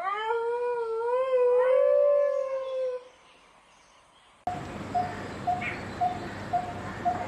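A canid howling: one long, wavering howl lasting about three seconds, with a second voice joining partway through. After a short silence, a different sound starts: a short chirp repeating about twice a second over a rustling background.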